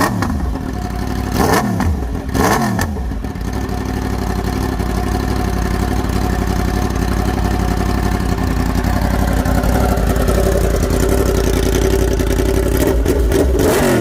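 Yamaha R1 inline-four engine revved in two quick blips, then held at a steady note for several seconds, and blipped again near the end.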